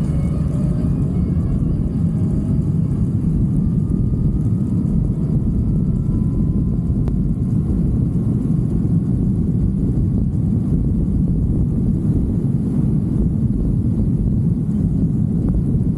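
Steady low rumble of a motorcycle ride, with wind buffeting the microphone and the engine running underneath. Faint rising engine tones come through in the first few seconds.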